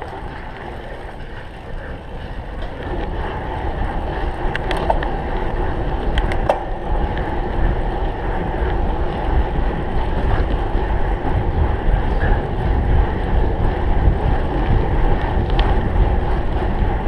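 Wind rushing over a bike-mounted microphone with the rumble of a cyclocross bike ridden at speed, getting louder about three seconds in as the pace picks up. A few sharp clicks sound through it.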